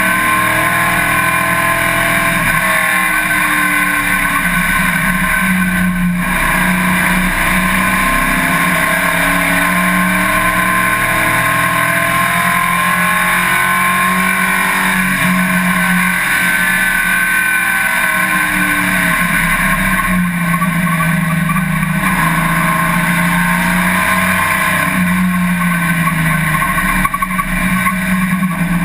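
Race car engine running hard and continuously, its pitch rising and falling every few seconds as it accelerates, shifts and slows for corners, over a steady rush of wind and road noise.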